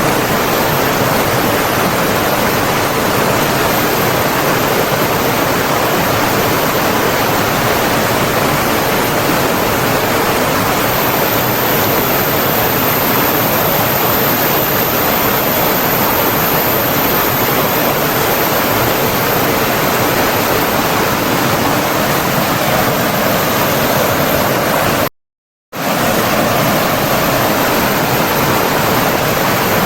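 Flowing stream water rushing steadily, an even, full hiss with no distinct splashes. It cuts out completely for about half a second near the end, then returns unchanged.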